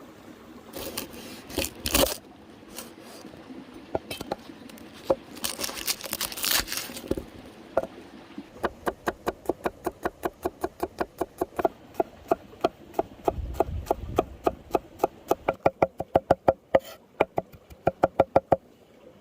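Irregular handling knocks and rustles, then a fast, even run of knife strokes chopping on a wooden cutting board, about four a second, stopping just before the end.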